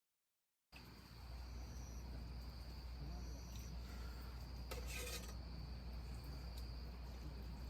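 Crickets chirping steadily, a constant high thin trill, over a low steady hum; the sound cuts in suddenly less than a second in.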